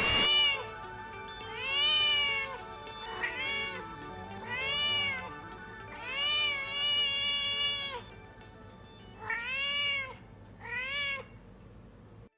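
Domestic cat meowing over and over, about seven meows: some long and drawn out, the last two short.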